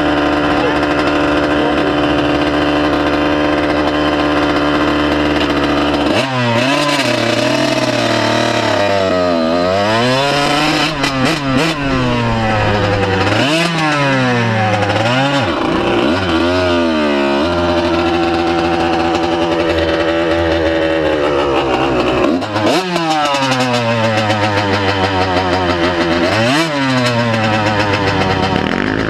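Honda CR125 two-stroke motocross bike engine idling steadily, then revved up and down several times, with a steady spell between the revs.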